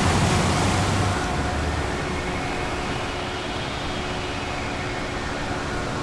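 Ocean waves: a wave surges and breaks right at the start, then washes out into a steady hiss of surf. Faint steady drone tones run underneath.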